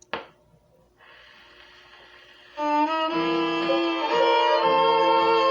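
A sharp click at the start, then a faint hiss of record surface noise, then about two and a half seconds in a fiddle-led instrumental intro of a 1940s country record starts, with sustained notes that move from pitch to pitch.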